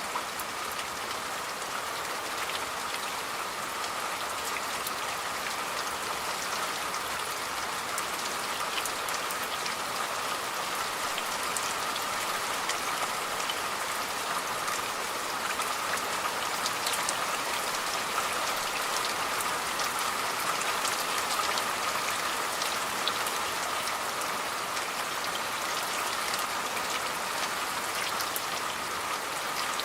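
Steady rain falling, a dense even hiss sprinkled with many small drop ticks.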